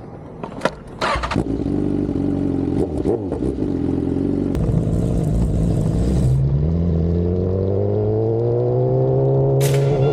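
BMW S1000RR's inline-four engine: a couple of sharp knocks about a second in, then the engine running steadily, and from about six seconds in rising smoothly in pitch as the bike accelerates.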